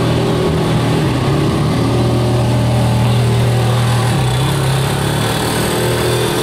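Ferrari 430 Scuderia's V8 engine running steadily at low revs as the car drives slowly past and away.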